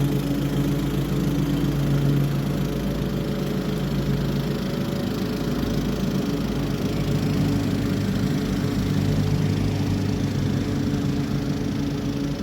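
Toro HDX 30-inch self-propelled walk-behind mower with a mulching kit, its engine running steadily while mowing grass.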